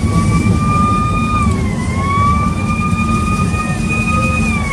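A vehicle's high-pitched whine over a heavy engine rumble. The whine climbs slowly in pitch, drops sharply about a second and a half in, climbs again and drops near the end, as if the vehicle is accelerating through gear shifts.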